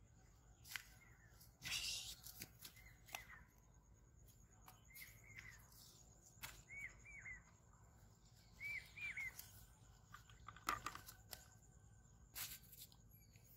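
Faint outdoor quiet with a small bird giving short, arched chirps in twos and threes several times, and a few rustles and scuffs of movement.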